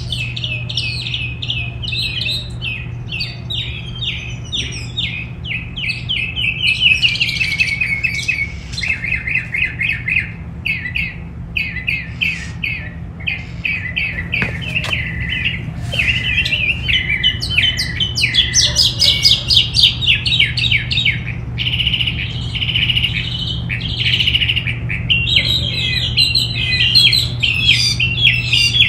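Many small songbirds chirping and twittering at once, a continuous overlapping chatter of quick high notes, over a steady low hum.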